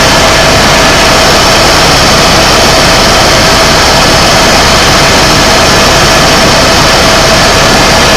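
Tour helicopter in flight, heard on board: loud, steady engine and rotor noise with a constant whine running through it.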